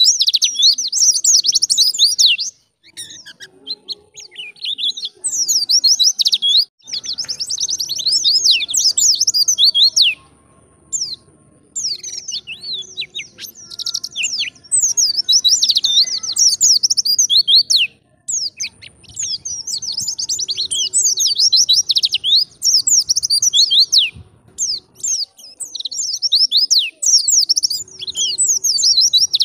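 White-eye (pleci) singing in fast, high chattering twitters. Phrases of a few seconds are broken by short pauses.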